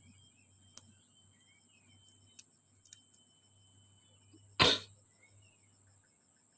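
A few light clicks, then one sharp clack about two-thirds of the way through, typical of small parts and tools being handled. Behind it, birds chirp and a steady high insect whine runs throughout.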